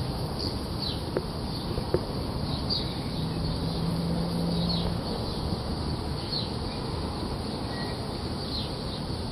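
Outdoor background noise with a bird giving short, high, falling chirps every second or two. A faint steady hum comes in for a couple of seconds midway.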